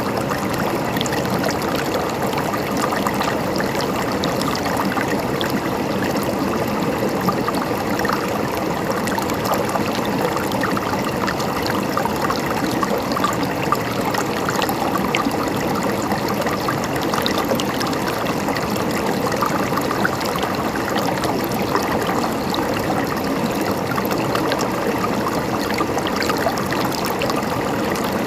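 Flowing water gurgling and trickling steadily, with many small splashes running through it.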